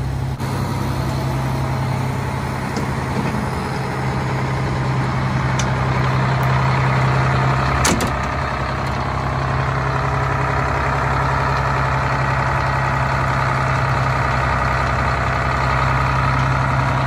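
Detroit diesel engine of a 1989 Crown Supercoach bus idling steadily, with a single sharp clank about eight seconds in.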